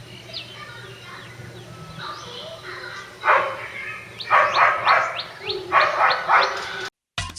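Birds calling: thin chirps and short falling notes, then about three seconds in a run of loud, harsh, repeated calls.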